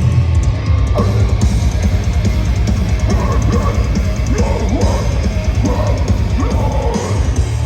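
Heavy metal band playing live and loud: rapid pounding kick drum under distorted guitars.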